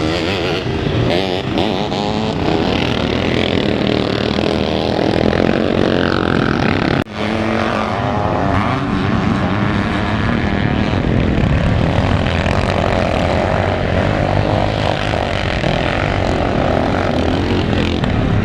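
Several motocross motorcycles racing, their engines revving up and down in pitch as they accelerate and pass, with a brief drop-out about seven seconds in.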